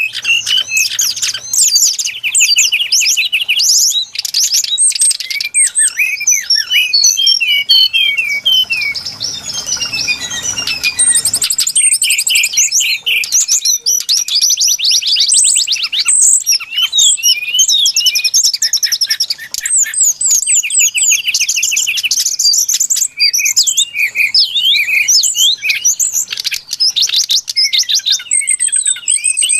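Brown-chested jungle flycatcher song used as a lure call: a dense, high-pitched run of quick chirps, rapid trills and short whistled notes with hardly a pause.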